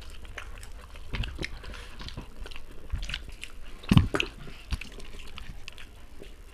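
Close-up chewing and lip-smacking of people eating chicken biryani with their fingers: wet, irregular mouth clicks and smacks, with one louder click about four seconds in.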